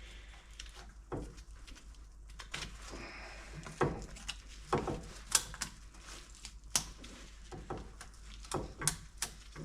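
Scattered light clicks and taps of a diesel piston ring being handled and positioned top side up.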